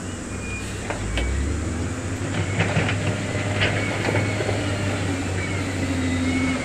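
Heavy earthmoving machine's diesel engine running under load with a steady low drone, with metallic clanks and knocks and a faint squeal, as from steel tracks or rock being pushed.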